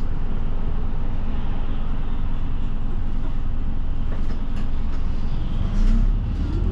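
Route bus heard from inside the cabin: a steady low rumble of diesel engine and road noise. Near the end the engine note climbs steadily as the bus accelerates.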